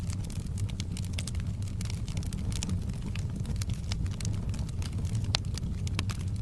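Wood fire burning in a fireplace, crackling with irregular sharp pops over a low steady rumble; one louder pop comes about five seconds in.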